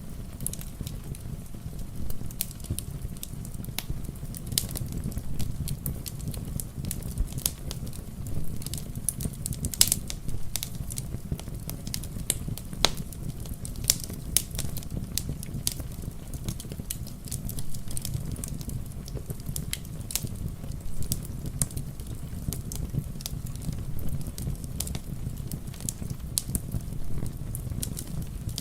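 Wood fire crackling with irregular sharp pops over a steady low rumble, with rain pattering softly.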